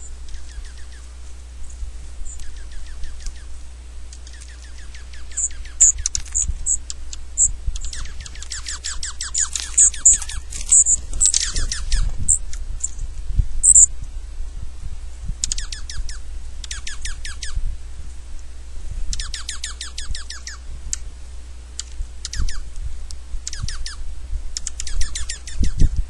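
Small songbirds chirping in quick chattering series of notes, with some short high peeps, over and over, busiest around the middle. A steady low rumble runs underneath.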